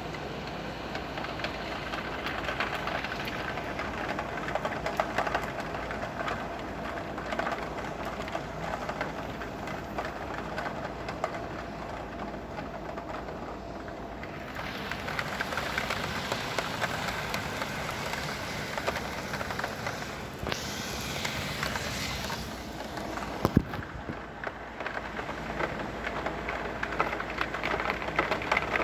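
Heavy rain falling steadily, a dense hiss full of fine drop ticks. The hiss brightens about halfway through, and a single sharp knock sounds about two-thirds of the way in.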